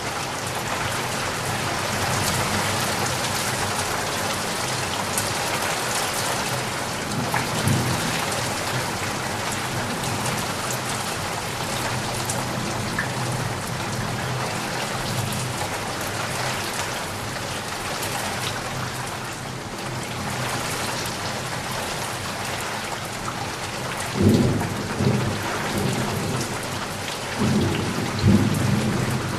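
Steady rain falling, with low rolls of thunder: a faint one about a quarter of the way in and two louder ones near the end.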